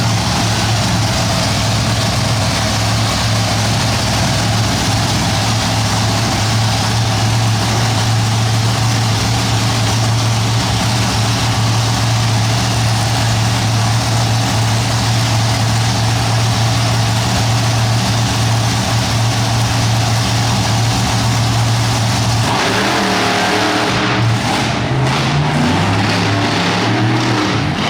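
Monster truck engine running loud and steady, then revving up and down in the last few seconds.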